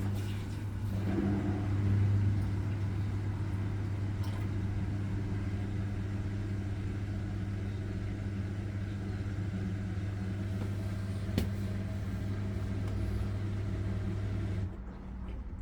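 LG front-loading washing machine running its spin cycle: a steady low motor and drum hum that swells slightly in the first couple of seconds, with a single click partway through, and stops abruptly near the end.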